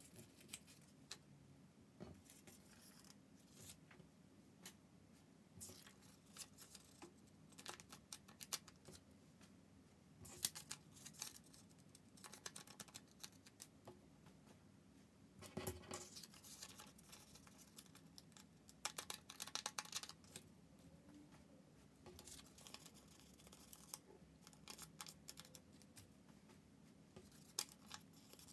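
Origami paper being folded and creased by hand: faint, irregular crisp crackles and rustles of the sheet in scattered bunches, the sharpest about ten seconds in.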